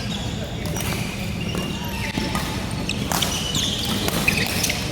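Badminton rally: several sharp racket hits on the shuttlecock, with brief shoe squeaks on the court floor and voices in the background.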